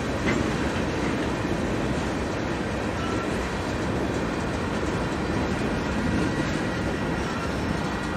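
Freight train cars rolling past steadily, wheels running on the rails, with a few faint, brief high squeals.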